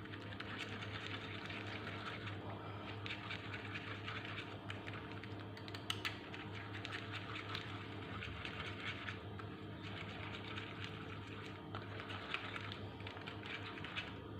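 A spoon stirring a thick cream mixture in a bowl: rapid small clicks and scrapes of the spoon against the bowl, over a steady low hum.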